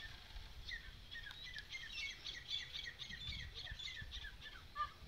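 Small birds chirping: a quick run of many short, high, mostly falling notes, starting about a second in and fading out near the end, over a faint low rumble.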